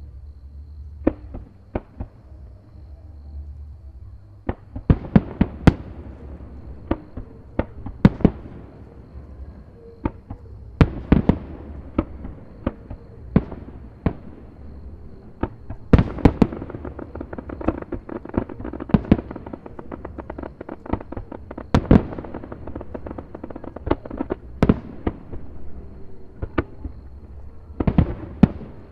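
Fireworks shells bursting in quick irregular volleys of sharp bangs, some echoing, over a low rumble, building after a sparse first few seconds.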